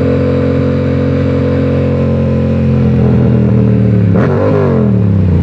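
Sportbike engine running at a steady pitch, then slowly dropping in pitch as the bike slows. About four seconds in, a second engine note briefly rises and falls across it.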